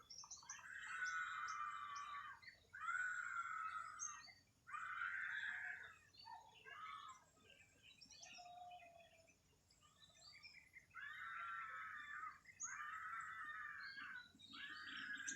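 Birds singing: one bird repeats a loud phrase about a second long, six or so times, with a pause midway, while other birds give short, higher chirps around it.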